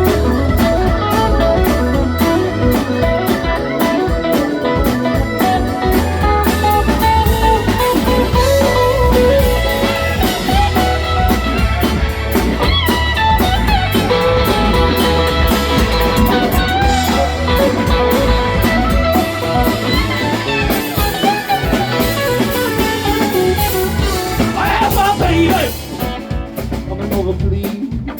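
Live blues-rock band playing an instrumental passage: electric guitar over bass and drum kit, with a lead line bending in pitch through the second half. The band drops back in level near the end.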